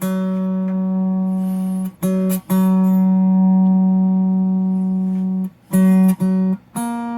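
Electric guitar with Mojotone '58 Quiet Coil pickups, played through an amp with the tone control rolled all the way off, giving a dark, nasal tone close to a cocked wah. A few single notes are picked and left to ring, mostly the same low note, one held for about three seconds, with a slightly higher note near the end.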